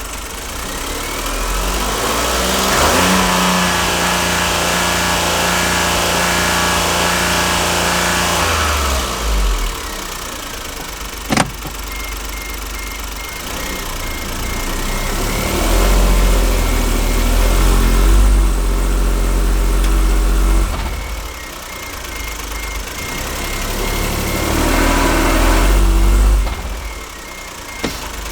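A 2008 Smart ForTwo's 1.0-litre three-cylinder engine is brought up in revs under load and held three times, each time falling back to idle. The engine has a misfire that runs as a dead cylinder, with cylinder 3 flagged. A single sharp click comes about 11 seconds in.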